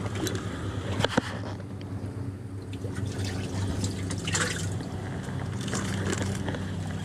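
Water splashing and dripping beside a fishing boat, with a couple of sharp clicks about a second in, over a steady low hum.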